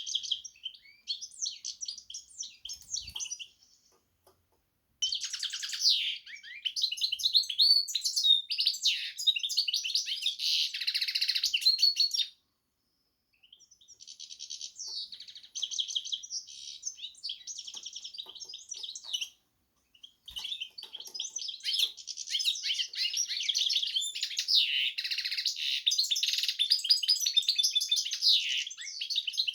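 Carduelis × canary hybrid (a finch mule) singing long, high-pitched bouts of rapid twittering and trills, broken by three short pauses.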